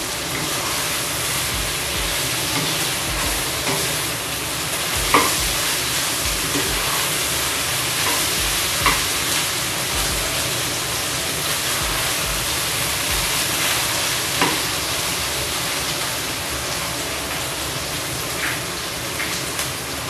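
Chicken, garlic and onion sizzling steadily in a non-stick wok while being stirred and turned with a spatula, with a few sharp knocks of the spatula against the pan.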